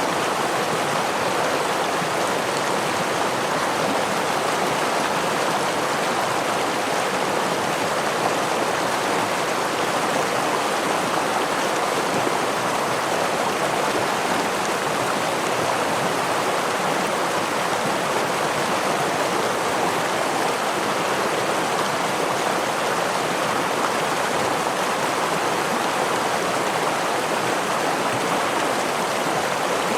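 Steady rush of flowing stream water and a small waterfall, an even continuous splashing with no changes.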